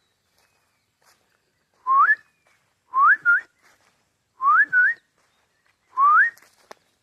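A person whistling four short calls, each sliding upward in pitch, two of them with a quick second rising note tacked on.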